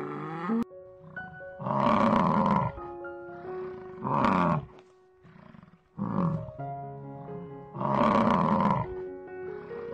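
Four loud animal calls, each lasting about half a second to a second, over background music with held notes.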